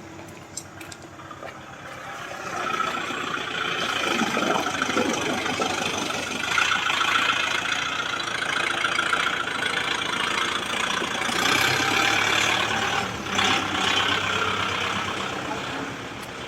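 Kubota tractor's diesel engine running, growing louder about two and a half seconds in and staying loud.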